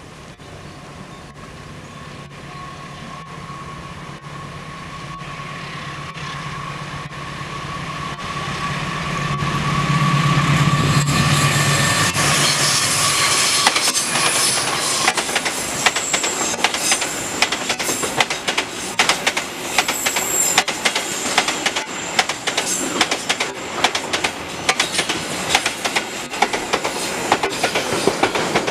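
Diesel locomotive approaching, its engine hum growing steadily louder until it passes about halfway through. A long train of container wagons then rolls by with a rapid, regular clickety-clack of wheels over the rail joints and a thin, high wheel squeal for a few seconds.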